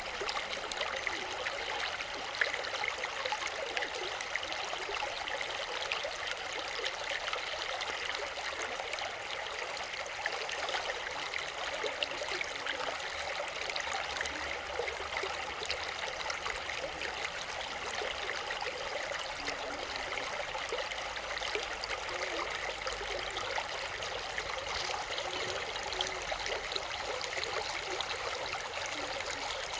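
Water flowing steadily, a continuous splashing rush.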